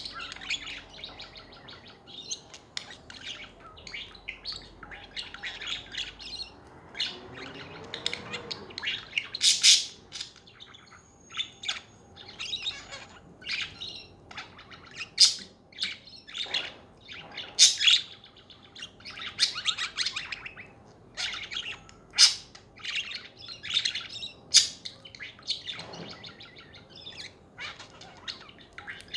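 Pet budgies (budgerigars) chattering: a busy, irregular stream of chirps, warbles and sharp high calls, with several louder calls standing out.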